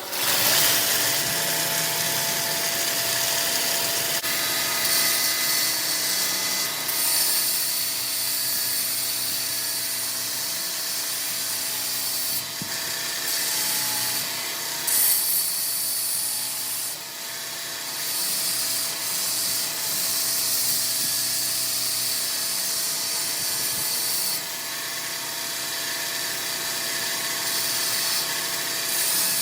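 Electric grinder running against the steel of a forged knife blade, with a steady motor whine under a loud high hiss that swells and drops every few seconds as the blade is worked.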